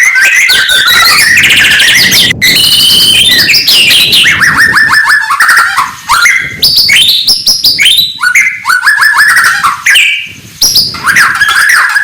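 White-rumped shama (murai batu) singing a loud, continuous, varied song of rapid repeated notes, trills and gliding whistles, with two short breaks, one about halfway through and one near the end.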